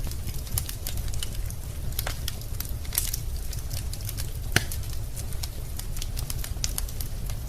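Wood fire burning in a fireplace, with irregular crackles and snaps over a low steady rumble of the flames; one louder pop about four and a half seconds in.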